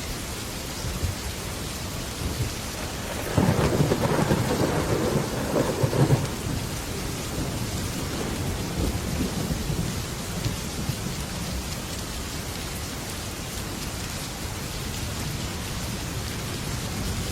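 Heavy rain falling steadily on a metal roof, with a thunderclap about three seconds in that rumbles for a few seconds before fading back under the rain.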